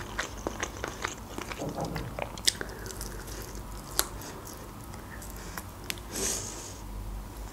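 Close-up biting and chewing of a glazed chicken wing, with wet mouth sounds and a few sharp clicks.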